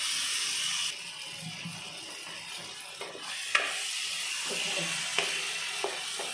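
Onion-tomato masala sizzling in a nonstick kadai while a wooden spatula stirs and scrapes it, with a few short taps of the spatula against the pan. The sizzle drops back about a second in and rises again a little past halfway.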